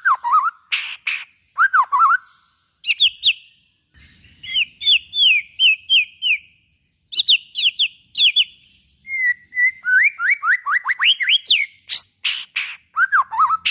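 White-rumped shama (murai batu) singing a loud, varied song: phrases of quickly repeated sweeping whistles mixed with sharp clicking notes, with short pauses between phrases.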